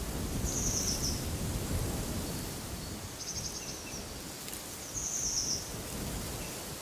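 Wind blowing with a low, gusty rumble, and a small bird giving a short, high trilled call three times, about two seconds apart.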